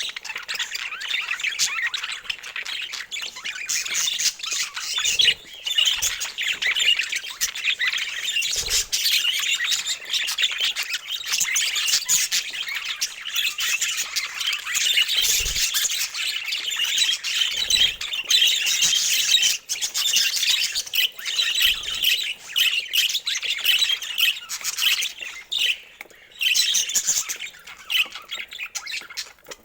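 Budgerigars chattering and chirping without a break, several birds at once, with a few brief soft thumps.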